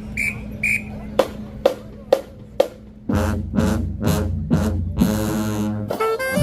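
High school marching band music: four sharp drum strikes about half a second apart, then the full band comes in with sustained chords over a heavy bass about three seconds in.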